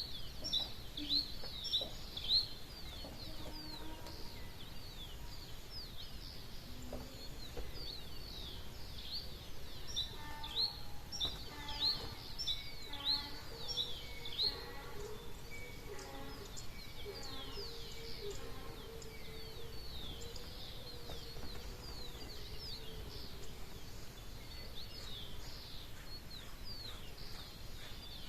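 Dawn chorus of birds: many quick, high, falling chirps repeating without a break, with a lower, repeated call from another bird joining in for several seconds mid-way.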